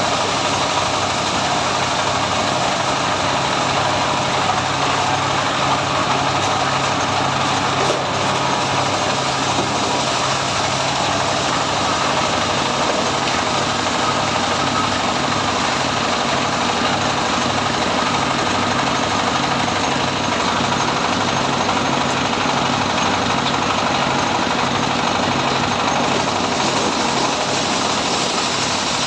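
Mobile corn sheller running steadily, driven by its 33 hp diesel engine, with a low engine hum under the hiss of the threshing drum and blowers.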